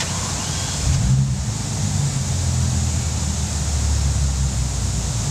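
Bentley Continental Supersports' twin-turbo W12 idling steadily through its factory exhaust, a low even rumble.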